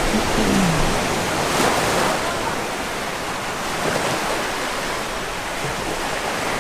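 Sea surf washing onto the beach: a steady rush of waves.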